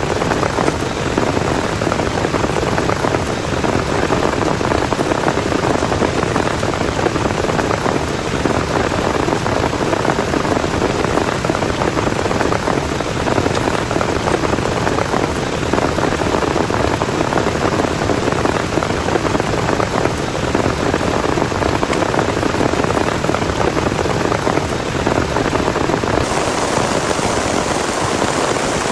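Heavy rain falling steadily in a dense, even hiss, with no thunder claps; the hiss brightens slightly near the end.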